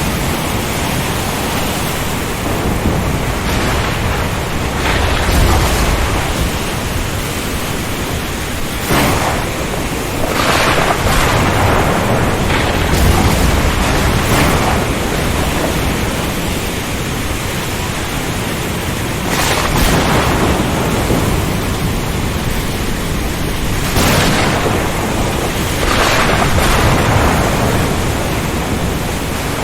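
Storm at sea: a steady wash of wind, rain and surf, swelling in surges every few seconds, with low rumbles of thunder.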